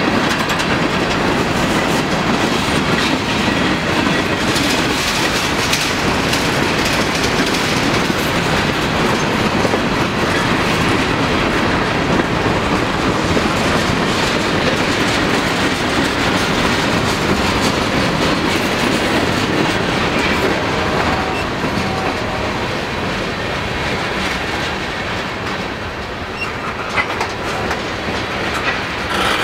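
Freight cars rolling past at speed: a steady rumble of steel wheels on rail, easing slightly past the middle, with sharp wheel clacks near the end.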